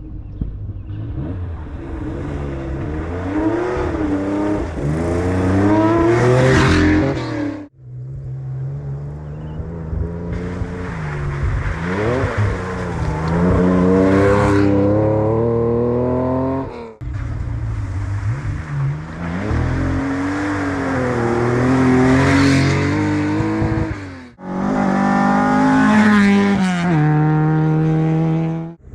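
Classic rally cars at full throttle on a special stage, their engines revving up through the gears and easing off as they pass. The sound comes in four short stretches, each cut off abruptly.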